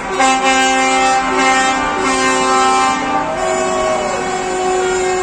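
Truck air horns sounding in long blasts, several notes at once that change about every second, ending in one held tone.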